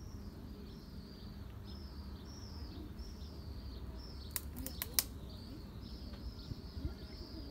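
A small bird chirping over and over, short arched notes about two a second, over a low steady background rumble. Four sharp clicks come close together about halfway through.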